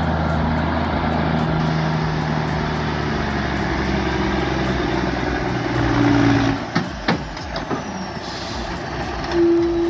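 Heavy vehicle engine running steadily, with a few sharp knocks about seven seconds in and a short steady tone near the end.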